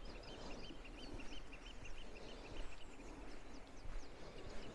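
A bird calling in a quick run of short, evenly repeated high notes, about five a second, which fades out a little past halfway, over faint steady background noise.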